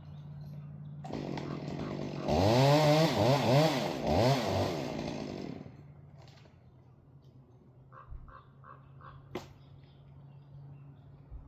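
Chainsaw revved several times in quick succession for a few seconds, its pitch rising and falling with the throttle, then dropping away. Later, four short high chirps are followed by a sharp click.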